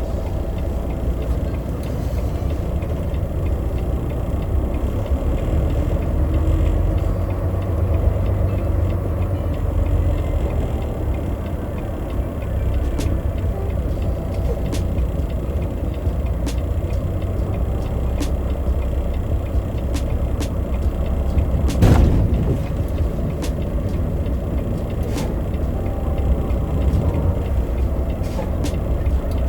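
Semi-truck engine running with a steady low rumble. A single loud thump comes about three quarters of the way through, with scattered light clicks.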